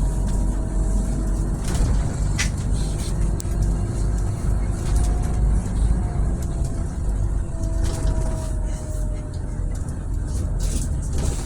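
Scania Scala city bus running, with a steady low engine and road rumble. Faint whining tones slide slowly up and down over it, and there are occasional short rattles or clicks.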